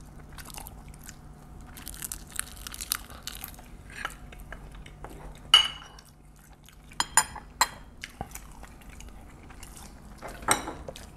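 Close-miked chewing and crunching of mouthfuls of marinated raw crab and rice wrapped in seaweed, with metal spoons clinking against ceramic bowls: one sharp clink about halfway, three quick clinks a little later, and another near the end.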